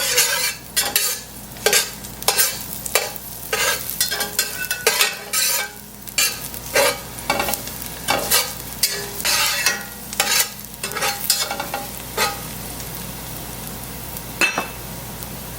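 A utensil stirring and scraping food in a frying pan over a steady sizzle, in short strokes one or two a second. The stirring stops about twelve seconds in, leaving the sizzle.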